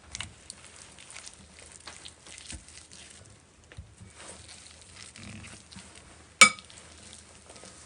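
Boiled potatoes being mashed with a potato masher: soft, irregular squishing and light tapping, with one sharp knock about six and a half seconds in.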